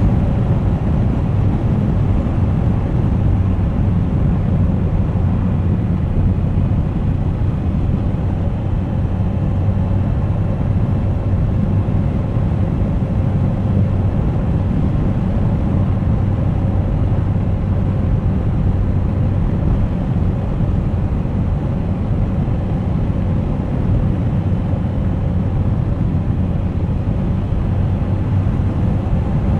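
Suzuki GSX1250FA's inline-four engine running at a steady cruise, a constant low hum under a rush of wind and road noise.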